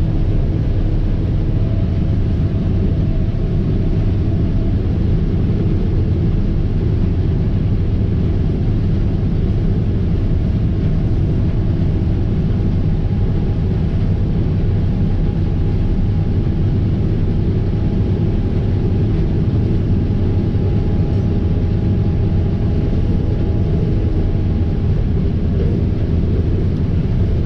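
Fendt IDEAL 7 combine harvester running steadily under load while harvesting wheat: a constant low engine and machinery rumble, with a faint steady whine through the middle.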